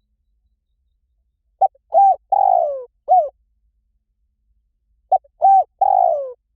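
Spotted dove cooing, a recorded lure call: two phrases of about four coos each, about three and a half seconds apart. In each phrase the third coo is the longest and falls in pitch.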